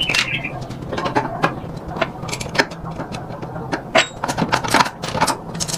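Irregular metallic clinks and taps, several a second, as of tools and metal parts being handled, over a steady low hum.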